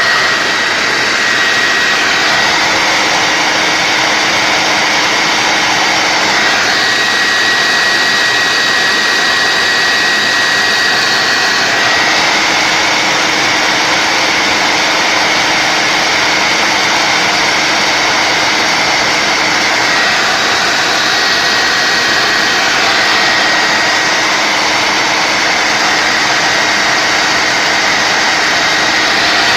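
Two-speed household vacuum cleaner running, its motor giving a steady high whine over a loud rush of air, with small shifts in tone a few times. Its speed is set by a diode in the supply line, which cuts the voltage on the low setting.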